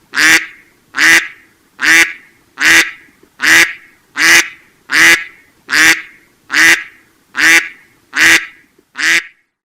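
Duck quacking: about a dozen short quacks in an even rhythm, a little more than one a second.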